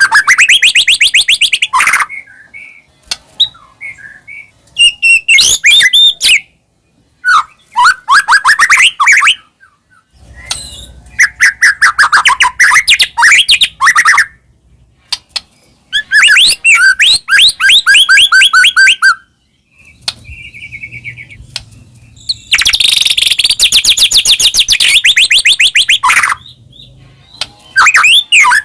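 White-rumped shama singing loudly in full song: a string of phrases, each one to three seconds long, made of fast repeated chattering notes and trills, with short pauses between them.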